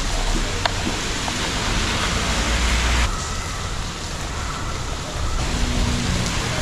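Steady rain falling, an even hiss, with a few faint clicks in the first couple of seconds.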